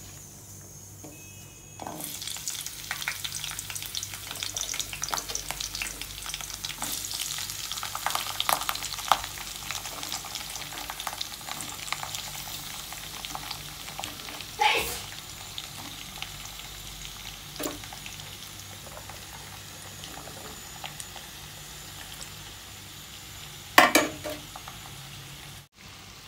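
Chopped shallots, onion, ginger, garlic, green chillies and curry leaves hit hot coconut oil in a nonstick wok about two seconds in. They sizzle and crackle as they sauté, most fiercely in the first several seconds, with a steel spoon stirring them. Two louder clatters come about halfway through and near the end.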